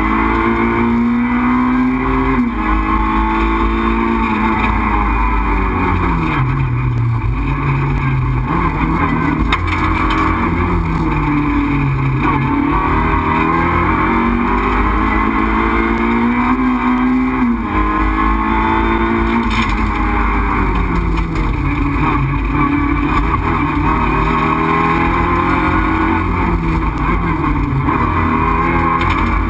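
Renault Clio 2 RS Group A rally car's four-cylinder engine, heard from inside the cabin, driven hard. The engine note climbs as it revs out and drops back over and over as the car shifts gear and lifts for bends.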